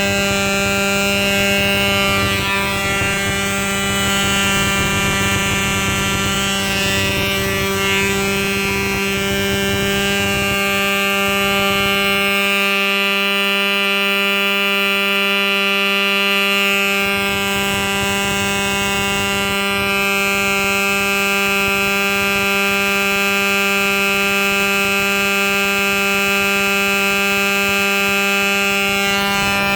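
Enya .19 two-stroke glow engine on a control-line model airplane running steadily at a constant high speed, a loud unwavering buzzing whine. The owner calls the run smooth, wide open.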